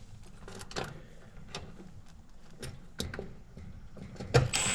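Scattered light clicks and taps of hand tools and small metal parts being handled while working on a package unit's heat kit, with a duller knock near the end.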